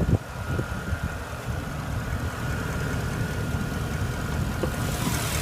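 Porsche Panamera Turbo's 4.8-litre twin-turbo V8 idling steadily, with a short thump right at the start.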